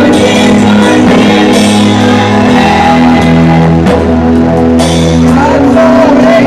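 Live gospel music: a choir singing over a band, with held bass notes and chords underneath.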